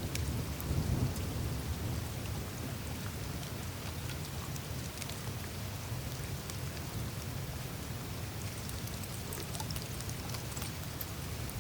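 Melting glacier ice: meltwater trickling through the surface with many small scattered ticks and cracks, over a steady low rumble.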